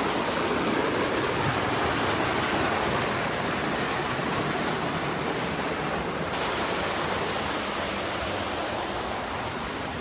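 Fast-flowing water rushing steadily through a canal beside the trail, a strong current.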